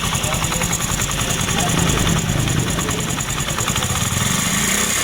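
Honda CD80 motorcycle's small single-cylinder four-stroke engine idling steadily with even exhaust pulses, freshly rebuilt, with the silencer sealed so that it no longer leaks.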